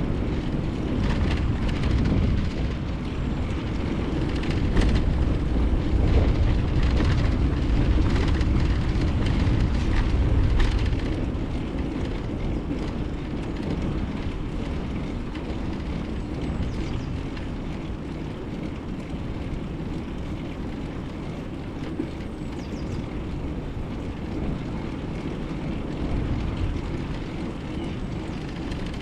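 Wind rumbling on a GoPro action camera's microphone during a bicycle ride, with tyre and road noise and a few light rattles. It grows louder about four seconds in and eases off after about eleven seconds.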